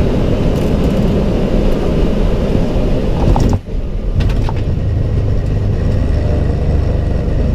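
Loud, steady low rumble of a jet airliner flying low on its landing approach, with a brief break about three and a half seconds in.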